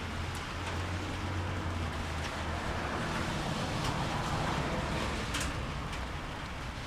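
Steady rain falling, with scattered sharp drip clicks over a steady low hum.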